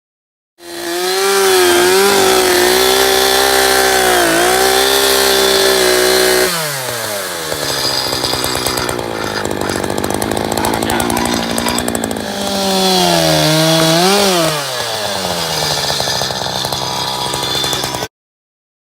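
Chainsaw running at high revs, its pitch dipping briefly, then dropping to a lower, rougher speed about six seconds in. It revs up again a little after twelve seconds, falls back, and cuts off abruptly near the end.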